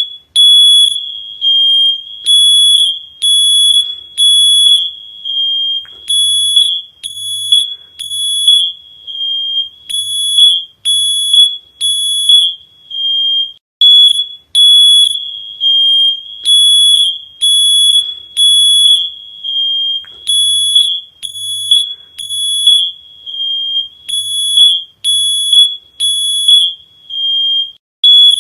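High-pitched electronic alarm beeping on one steady tone, in repeated groups of three beeps with a short pause between groups.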